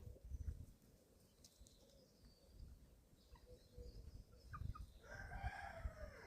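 Faint chicken sounds from 11-week-old chicks: a couple of short peeps, then about five seconds in one drawn-out, slightly bending call lasting about a second, a young cockerel's early attempt at crowing.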